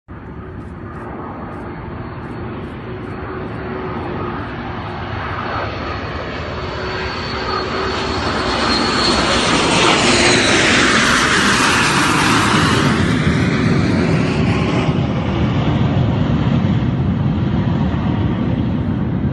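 Aircraft engines flying past: a dense rushing noise that grows steadily, sweeps to its loudest about ten seconds in, and stays loud.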